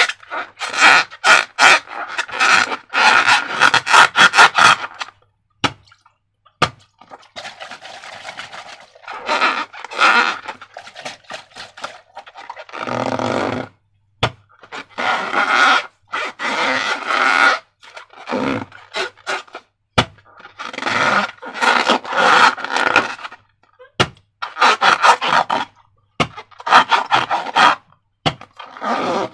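Slime and rubber balloons being handled, with repeated bursts of crackling, squelching, scraping noise separated by short pauses.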